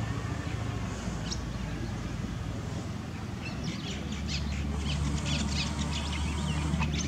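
Birds chirping in quick, repeated short calls, starting about three and a half seconds in, over a steady low rumble.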